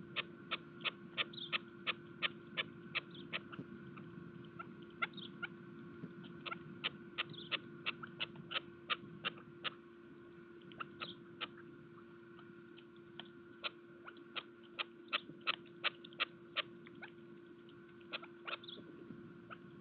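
Birds' beaks pecking seed on a bird feeder: quick, sharp, irregular taps at about two to three a second, fewer for a few seconds in the middle, over a faint steady electrical hum.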